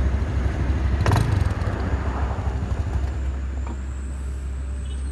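Truck engine running steadily at a low, even pitch, with a single sharp clunk about a second in.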